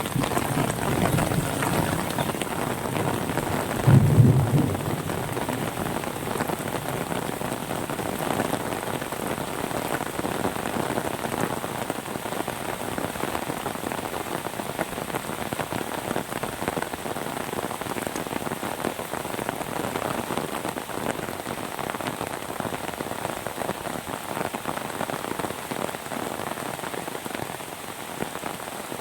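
Steady rain falling, the first rain after a dry spell, with a brief low thump about four seconds in.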